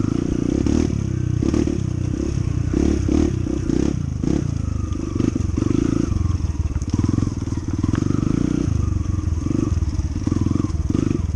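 Honda CT125's small single-cylinder four-stroke engine running while riding a rough trail, its low, uneven drone mixed with scattered clattering knocks.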